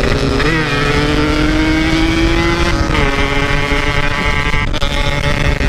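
Two-stroke motorcycle engine running under load while riding at speed, its note held fairly steady with a small blip near the start and a drop in pitch about three seconds in, over a low rumble of wind and road noise.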